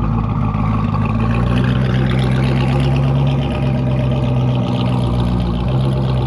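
A car engine running steadily at low revs, its note shifting slightly in pitch a few times.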